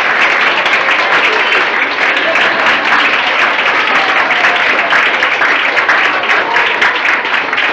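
Audience applauding: many people clapping steadily, with a few voices calling out over the clapping.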